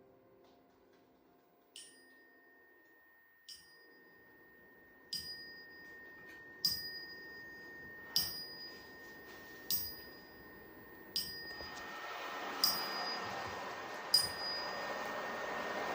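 Quiet passage of a percussion piece: a small high-pitched metal chime struck about every one and a half seconds, each stroke ringing briefly, over a thin steady high tone. A soft hiss swells in near the end.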